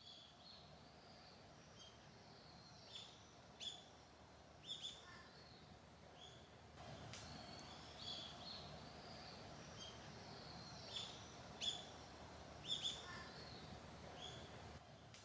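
Faint outdoor ambience of small birds chirping: short, high calls scattered through, often in quick pairs, over a steady low background hush.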